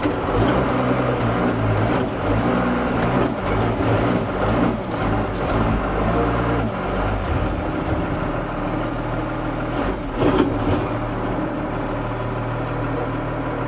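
Heavy diesel truck engine running, its pitch shifting a little now and then, with a brief louder burst about ten seconds in.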